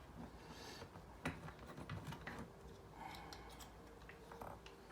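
Faint scattered light clicks and taps from handling a Ford car key fob after its new button has been fitted.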